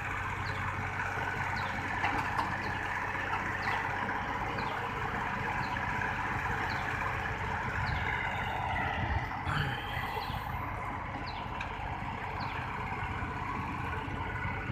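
A vehicle engine running steadily, with a short high squeak repeating about once a second.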